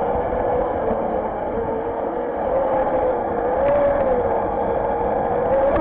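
Radio-control jet boat's motor running at speed, heard from on board: a steady whine that wavers slightly in pitch, over the rush of water.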